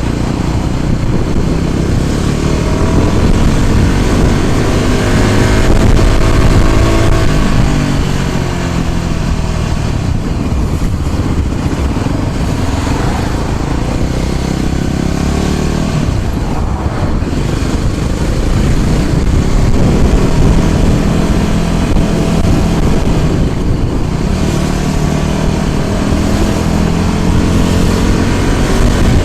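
A motor vehicle's engine running on the move, its pitch rising and falling as it speeds up and eases off, over a dense steady rumble of road and wind noise.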